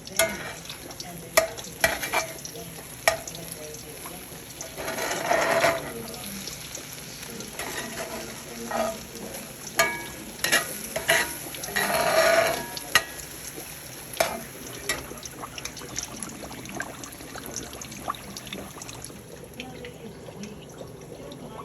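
Kitchen utensils clicking against dishes at scattered moments, with two longer stretches of noisy scraping or stirring, about five and twelve seconds in.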